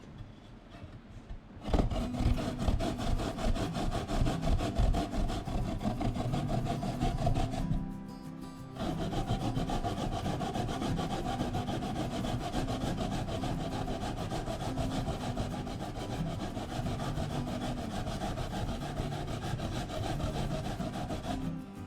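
Daikon radish being grated on a grater: a fast, even rasping of repeated strokes, with a pause of about a second partway through.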